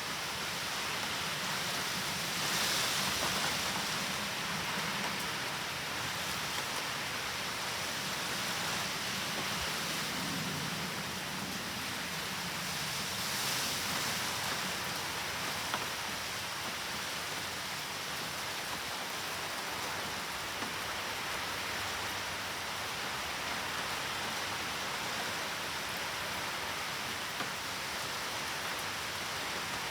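Heavy typhoon rain falling in a steady downpour, swelling louder twice, about two seconds in and again near the middle, with a few scattered drop ticks.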